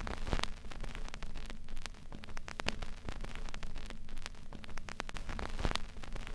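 Steady crackling noise with irregular sharp clicks over a low rumble.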